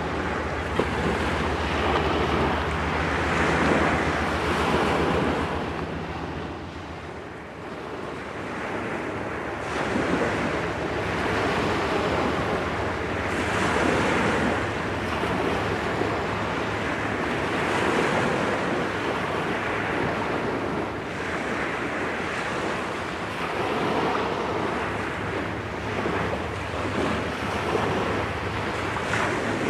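Wind buffeting the microphone and waves washing on the shore, swelling and easing every few seconds. Under it a low steady engine hum fades out about seven seconds in and returns near the end.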